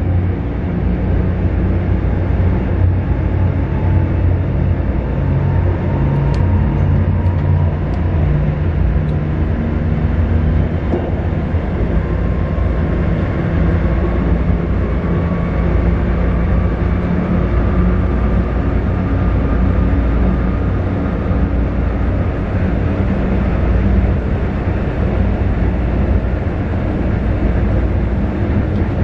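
Train running through a railway tunnel: a steady, loud rumble of wheels on rail, with a faint whine that slowly shifts in pitch.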